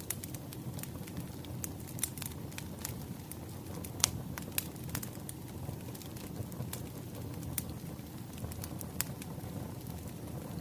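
Burning firewood crackling over a steady low rumble of flame, with irregular snaps and pops; one sharp pop about four seconds in stands out.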